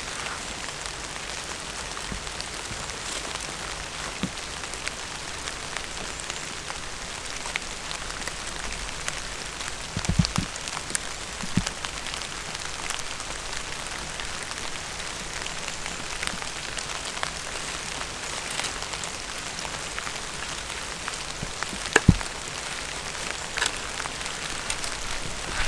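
Light rain falling steadily as an even hiss, with scattered sharper drop ticks; the loudest tick comes about 22 seconds in.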